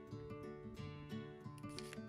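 Background music of plucked acoustic guitar, with a brief crinkle of a foil packet near the end.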